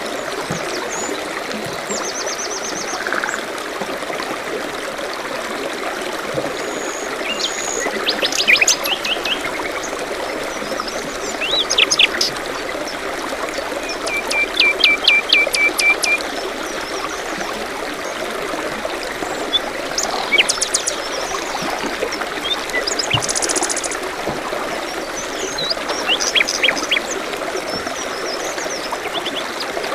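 Songbirds calling in a forest over a steady trickling stream. Bursts of quick repeated chirps come every few seconds, the loudest a run of rapid notes about midway through.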